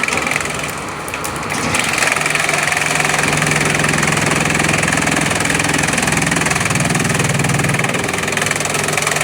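Bamboo chipping machine running steadily, a dense mechanical din with a low hum that grows louder about two seconds in and holds.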